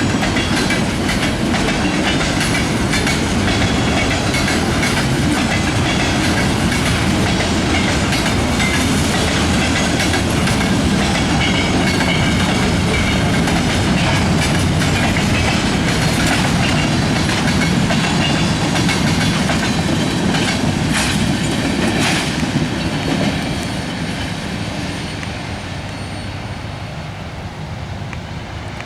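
Freight cars of a manifest train rolling past, steel wheels clicking over the rail joints under a steady rumble. About 23 seconds in, the sound drops and grows quieter as the train moves away.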